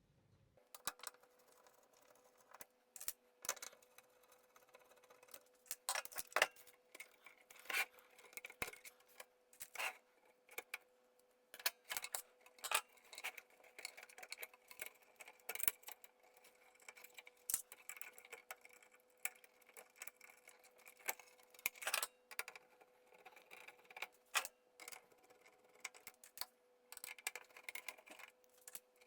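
Irregular sharp clicks and clinks of small tools and metal parts being handled while a UPS chassis is taken apart, over a faint steady hum.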